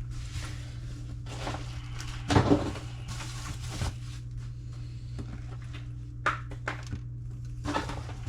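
Hands working with plumbing parts: short knocks and rubbing, loudest in a cluster about two and a half seconds in, with a few lighter clicks near the end, over a steady low hum.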